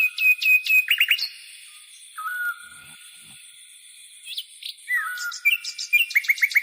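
Songbirds calling: short whistled notes and sharp sweeping chirps, then, over the last second or so, a fast trill of repeated falling notes at about ten a second.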